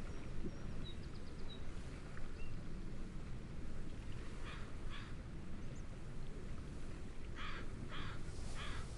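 A bird gives short, harsh calls, two about halfway through and three more near the end, over a steady low rush of wind and gentle waves. A few faint, thin chirps of small birds come a second or two in.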